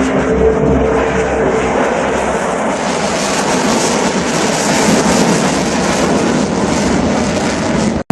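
Aircraft engine roar as a display aircraft flies past: a loud steady rumble with a few held engine tones at first, turning to a brighter rushing roar from about three seconds in, then cut off suddenly at the very end.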